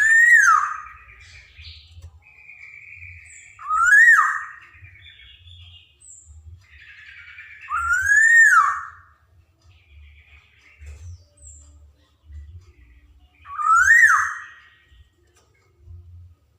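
Black-naped oriole (kepodang) calling: four loud slurred whistles, each rising and then falling, coming about every four seconds, with softer chattering notes between them.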